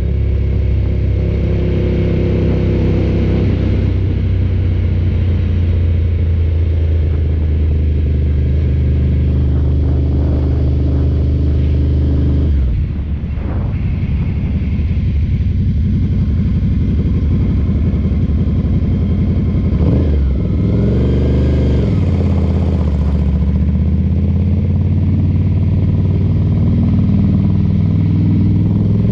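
Ducati cafe racer motorcycle engine running steadily under way. The engine note dips briefly a little under halfway through, as the throttle closes for a gear change, and shifts pitch again about two-thirds of the way in.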